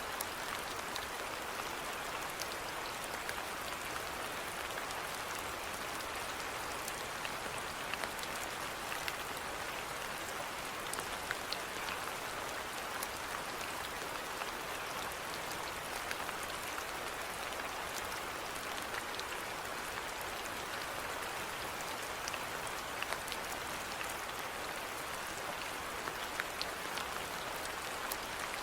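Steady rainfall with scattered drops ticking on a surface.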